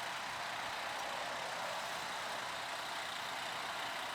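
Steady hiss with a faint low hum, unchanging throughout: the background noise of an idling vehicle.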